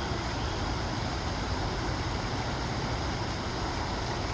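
Rain-swollen creek flowing, a steady rush of water.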